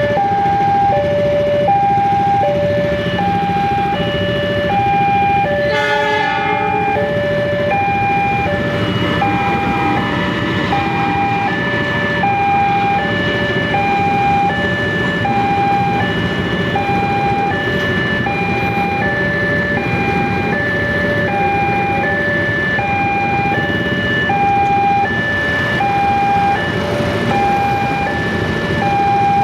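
Railway level-crossing warning alarm sounding a steady alternating high-low two-tone chime, about one pair every one and a half seconds, over a continuous rumble. A brief horn blast sounds about six seconds in.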